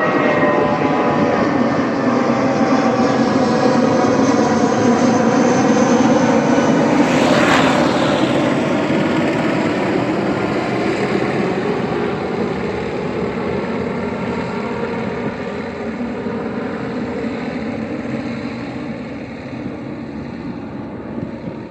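Airbus A320 jet engines at takeoff power as the plane passes and climbs away: the engine tones fall in pitch early on, the roar is loudest about seven seconds in, then fades steadily.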